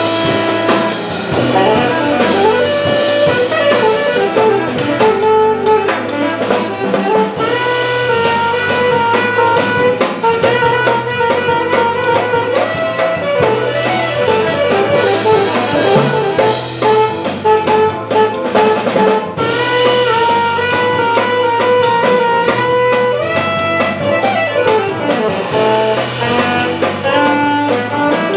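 Live jazz organ trio playing: a saxophone carries a busy melodic line over organ chords and a stepping organ bass line, with a drum kit keeping time on the cymbals.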